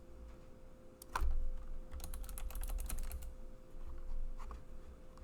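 Typing on a computer keyboard: a single keystroke about a second in, then a quick run of keystrokes, and a few more near the end.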